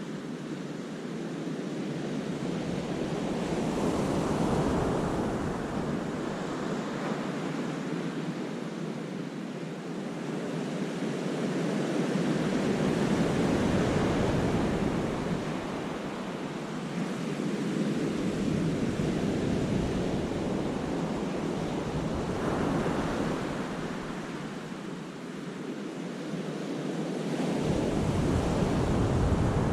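Sea waves breaking and washing in a rocky cove, a steady rush that swells and ebbs in slow surges, peaking about 4 s in, again around the middle and near the end. Wind rumbles on the microphone at times.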